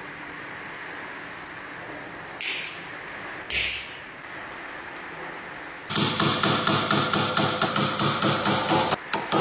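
Two short hissing bursts, then a rapid run of even knocks, about five a second, that stops briefly near the end.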